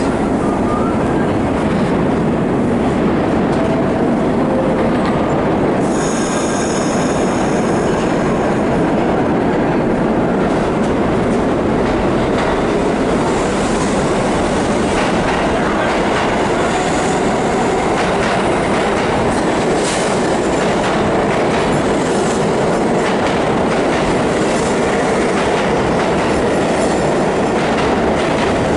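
New York City subway train running through the tunnel, heard from inside the car: a steady loud rumble of wheels on track with clicks over the rail joints. High wheel squeal comes in about six seconds in and again through the middle.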